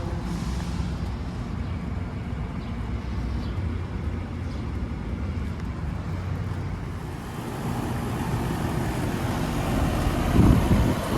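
Outdoor central air conditioner condenser unit running, a steady hum of the compressor and the condenser fan's whoosh. A brief louder rumble comes near the end.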